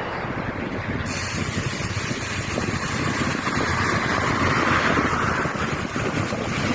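Steady road and traffic noise with wind on the microphone, which gets brighter and hissier about a second in.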